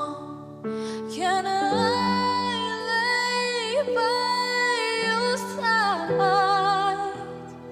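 A woman singing a slow ballad, holding one long high note with vibrato for about four seconds over soft instrumental accompaniment, then moving into a short closing phrase.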